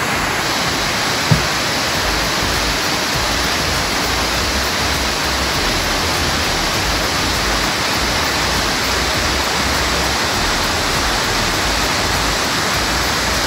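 Black Spout waterfall, a tall cascade into a gorge, rushing steadily and loudly, with one brief low knock about a second in.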